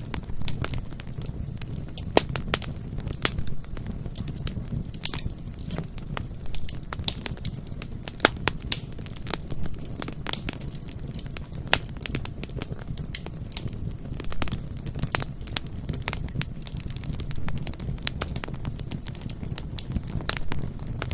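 Wood fire burning, with a steady low rumble and frequent irregular crackles and pops.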